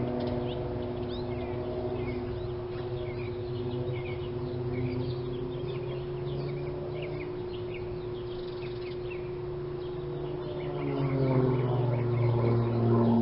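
Birds chirping over a steady low hum, which swells louder near the end.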